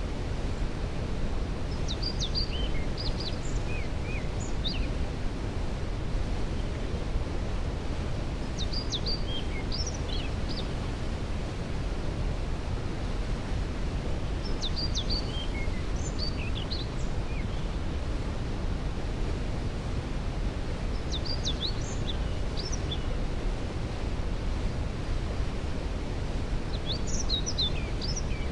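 Steady rushing of a waterfall heard from a distance, a constant low wash of water noise. Over it a songbird sings short chirping phrases about every six seconds, five times.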